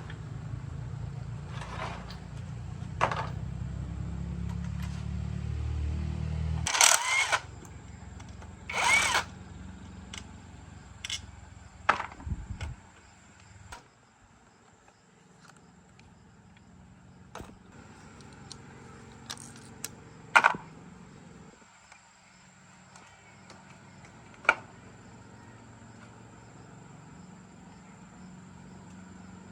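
Workshop sounds: a motor hums low and steady, drops about seven seconds in and stops around thirteen seconds. Scattered sharp clanks and knocks of tools on metal run throughout.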